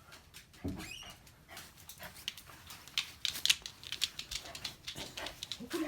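Shiba Inu dog giving a short rising whine about a second in, followed by a run of quick clicks and taps as it hops about in excitement.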